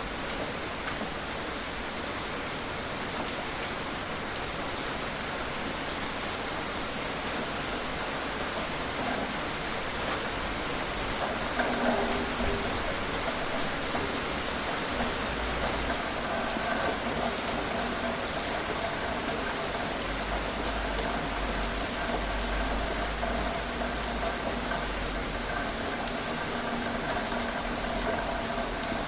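Gentle rain falling steadily, with scattered individual drops ticking. From about twelve seconds in, a faint low hum runs under it.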